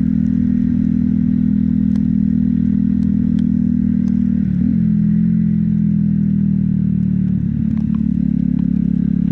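Motorcycle engine running steadily while riding, with a brief shift in pitch about halfway through and again later.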